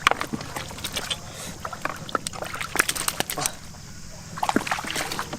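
Shallow floodwater splashing and sloshing in irregular bursts of sharp splashes, as fish are caught by hand.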